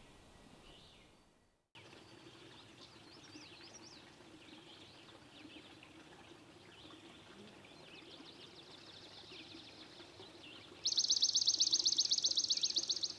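Forest birds singing and calling, with many short chirps and whistles. Near the end a loud, fast, even trill starts suddenly and lasts about two seconds.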